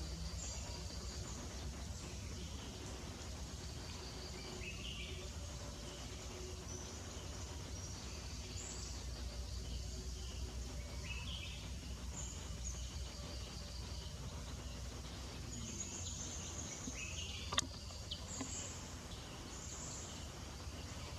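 Outdoor forest ambience: short, high chirps every few seconds over a steady low rumble. One sharp click comes about three-quarters of the way through.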